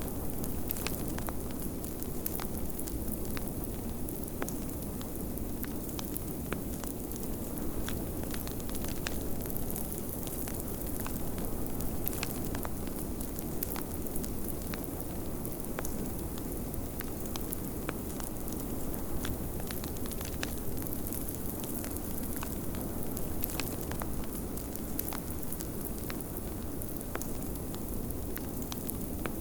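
Wood fire crackling with frequent small irregular pops, over a steady low rush of blizzard wind.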